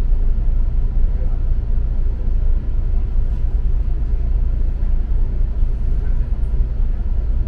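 Steady low rumble of a moving double-decker bus, engine and road noise heard from inside the cabin.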